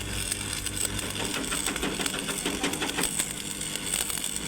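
Workshop clatter: irregular light metallic clicks and taps, over a low steady hum that stops a little over a second in.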